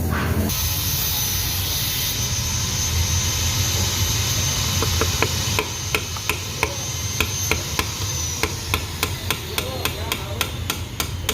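Repeated hammer taps on metal while a Honda Beat FI scooter's gearbox is being taken apart, starting about halfway through and speeding up to about three taps a second. A steady hiss and low hum fill the first half.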